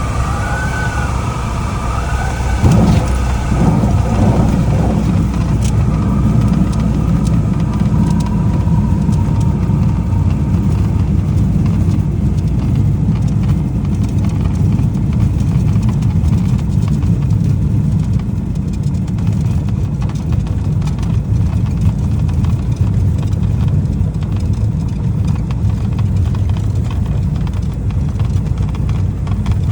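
Light aircraft cabin noise: the engine and propeller running in a steady low drone, with a few short gliding tones in the first seconds and a bump about three seconds in, then steady rumbling on through the landing roll.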